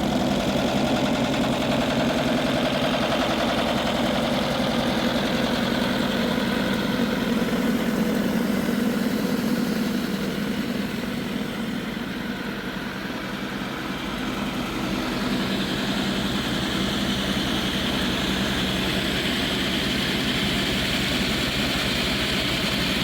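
An engine running steadily. Its sound thins for a few seconds about halfway through, then returns with a brighter hiss.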